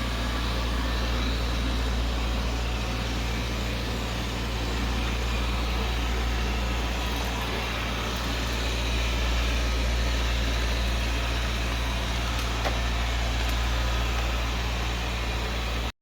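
Xiaomi Mijia Mop P robot vacuum running, its suction fan giving a steady whirring hum.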